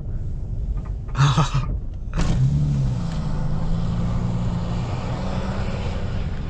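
Car engine running under way, with road and wind noise. Two short, loud rushes come about one and two seconds in, and the engine note then holds steady.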